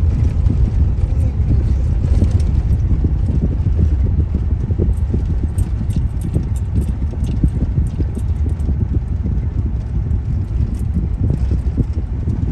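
Road noise inside a moving car's cabin: a steady low rumble of engine and tyres, with light clicks and rattles scattered through it.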